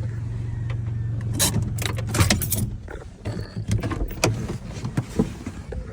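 Car engine running steadily, then shut off about three seconds in, with a cluster of sharp clicks and clunks just before it stops and scattered knocks afterwards.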